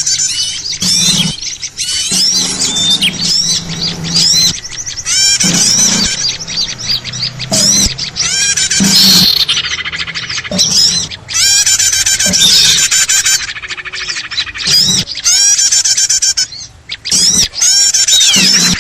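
Dense, noisy chorus of many small birds chirping and twittering at once, with quick, overlapping, repeated high notes. It is a mixed small-bird lure recording (pikat burung kecil) of the kind played to draw wild small birds in.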